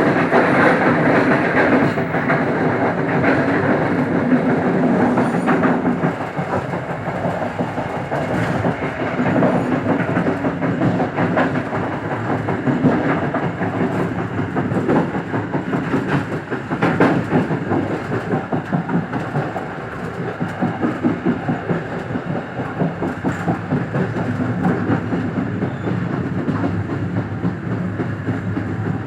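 Local passenger train running along the line: a steady rumble with the wheels clattering over the rail joints.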